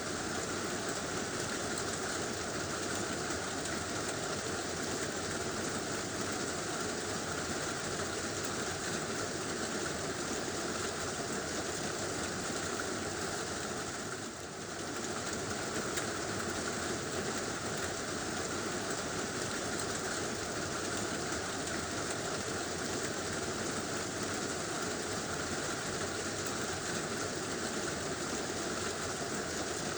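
Heavy rain drumming steadily on a tin roof, dipping for a moment about halfway through.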